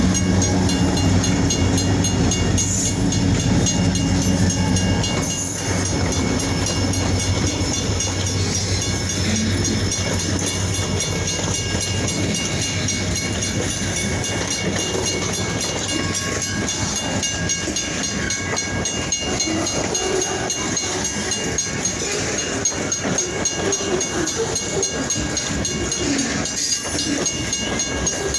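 EMD diesel-electric freight locomotives passing with a low engine hum for about the first five seconds. Then a train of freight cars rolls by, wheels rumbling and clattering over the rail joints.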